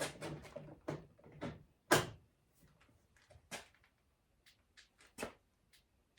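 Knocks and clunks of a steering column assembly being handled and slid into place, a quick cluster at first, the loudest clunk about two seconds in, then lighter scattered taps.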